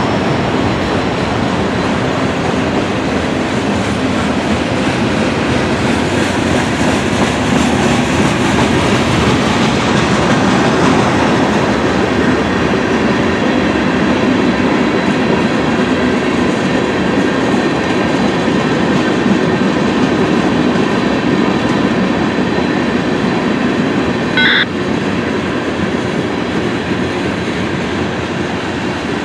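A mixed freight train's cars (autoracks, tank cars, covered hoppers) rolling past close by: a steady loud rumble of steel wheels on rail with clickety-clack over the joints. A short high-pitched squeal comes near the end.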